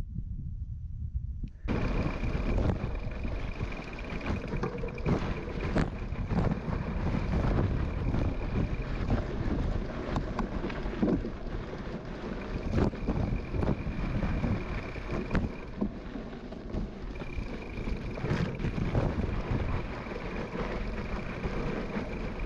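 Gravel bike rolling over a rough gravel road: tyres crunching with irregular small knocks and rattles, and wind buffeting the microphone. It starts abruptly about two seconds in.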